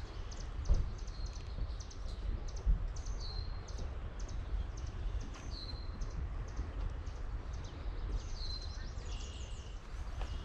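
Several songbirds singing, with many short high notes and one phrase, ending in a falling note, repeated about five times. Under it runs a steady low rumble, with two soft thumps in the first three seconds.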